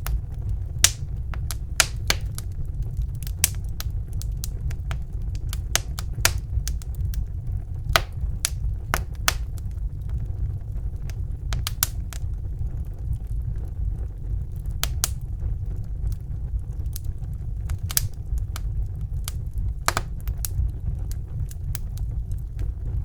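Fire burning in a fireplace: irregular sharp crackles and pops, a few at a time, over a steady low rumble of the flames.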